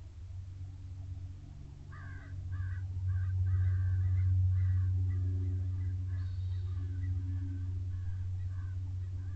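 A bird calling in a rapid series of short notes, about two to three a second, starting about two seconds in and fading toward the end, over a steady low hum.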